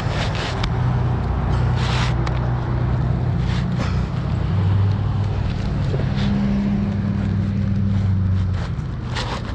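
A steady low engine hum that shifts a little in pitch and level, with wind noise on the microphone and a few short scrapes and clicks.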